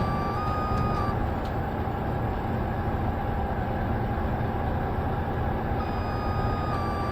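Heavy tow truck's diesel engine running steadily under load, with a high steady whine that stops about a second in and comes back near the end.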